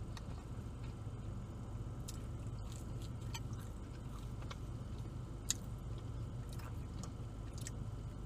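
A person chewing a mouthful of BBQ chicken pizza, with scattered small wet mouth clicks and one sharper click about five and a half seconds in, over a steady low hum.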